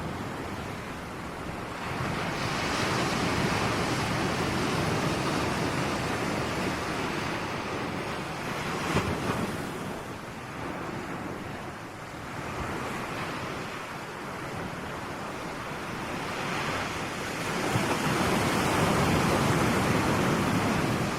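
Ocean waves breaking and washing up, a continuous hiss of surf that swells about two seconds in and again near the end, easing between, with a brief sharper splash about nine seconds in.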